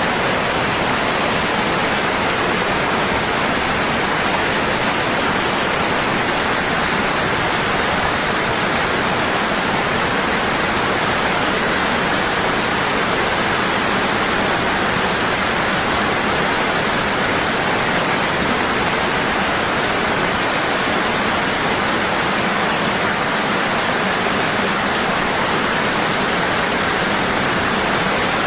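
Waterfall falling strong and constant: a steady, even rush of water.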